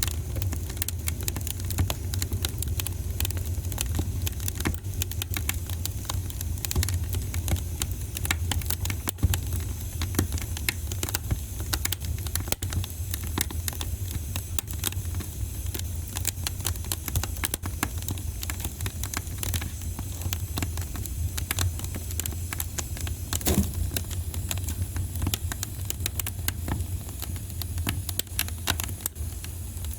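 Wood fire burning in a fireplace, crackling with frequent sharp pops and snaps over a low steady rumble; one louder pop comes about two-thirds of the way through.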